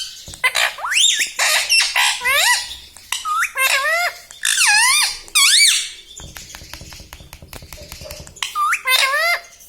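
Rose-ringed (ringneck) parakeet giving a string of high, squeaky calls that swoop up and down in pitch. About six seconds in, the calls give way to a rapid run of faint clicks, and the calls start again near the end.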